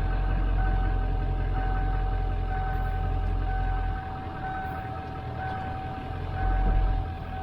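A 1997 Ford F350's 7.3 L Power Stroke turbo-diesel V8 idling with a low rumble, the owner says with several leaking injectors. A thin high whine pulses about once a second over it. The engine note drops about four seconds in and swells again near the end.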